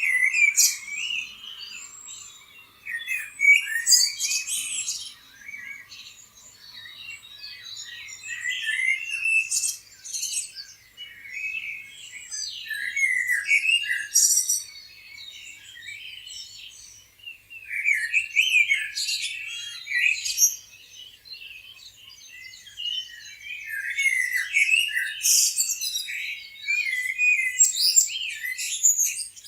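Several small birds chirping and singing over one another, high-pitched, in busy bursts of a few seconds with short lulls between.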